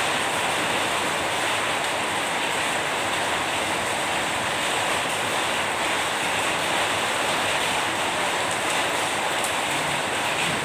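Steady rain, an even hiss that holds at one level without separate drops or thunder standing out.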